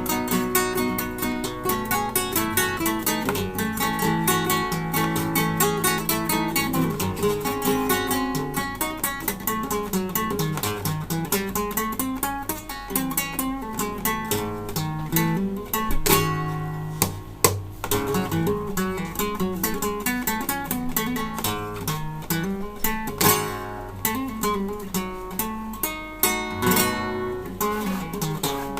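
Solo acoustic Spanish guitar playing a flamenco taranta: quick picked runs, broken by sharp strummed chords about 16 s, 23 s and 27 s in.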